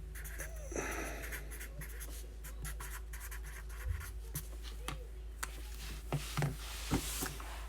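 Pen or marker writing on paper or card: a run of short scratchy strokes with small clicks, at a low level.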